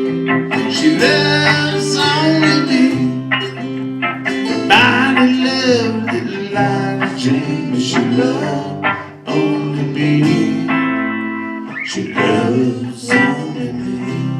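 Country band playing an instrumental passage: guitars, with a lead melody line above that bends in pitch.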